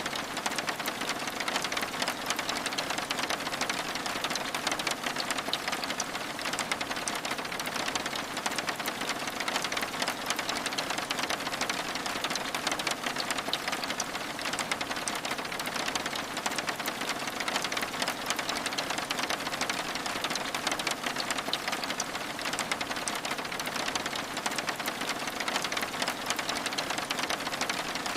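Steady rain: a dense, even patter of drops on window glass that does not let up.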